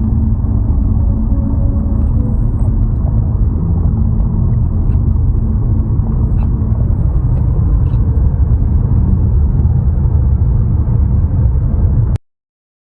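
Steady low rumble of a car's engine and road noise heard from inside the cabin. It cuts off abruptly near the end.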